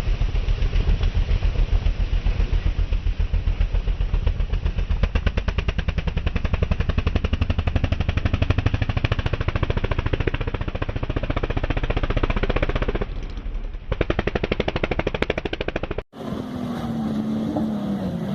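A vehicle engine running at low revs with a rapid, even pulsing beat; a little before the end the sound cuts off abruptly and switches to a different engine note that wavers in pitch.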